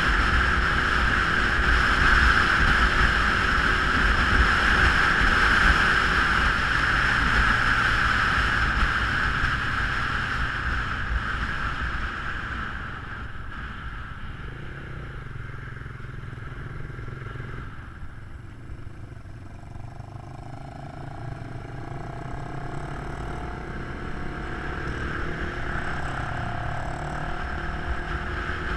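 Motorcycle riding: the engine running under wind noise, loud at first, growing quieter through the middle and building again near the end.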